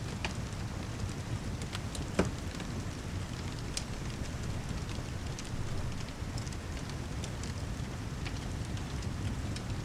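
Steady rainfall mixed with a wood fire in a fireplace: a continuous low rumbling hiss with scattered sharp crackles and pops, the loudest pop about two seconds in.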